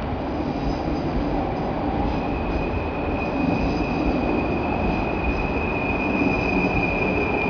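PKP Intercity passenger train rolling out past the platform, with a steady rumble of wheels on rail. From about two seconds in, a steady high-pitched wheel squeal joins it.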